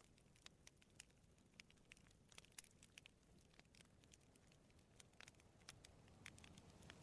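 Wood campfire crackling softly: frequent, irregular small snaps and pops of burning wood over a faint low rumble of sea waves.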